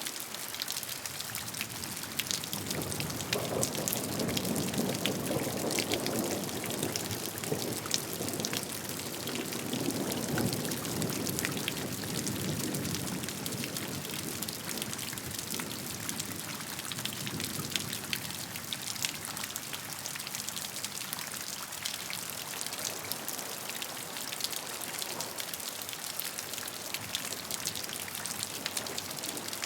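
Rain falling steadily, with many individual drops ticking close by. A low rumble swells a few seconds in and fades away by about halfway through.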